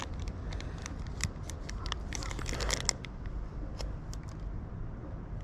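Wires being handled and sorted: scattered light clicks, snips and rustles of wire and small parts.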